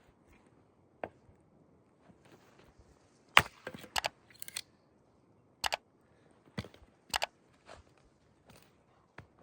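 Sharp knocks and cracks at uneven intervals, about ten of them, several in quick pairs.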